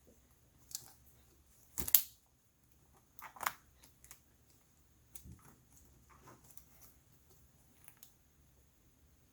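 Small sharp clicks and taps from handling a screwdriver and tiny screws during laptop disassembly. The loudest click comes about two seconds in and a quick cluster about three and a half seconds in, with fainter ticks after.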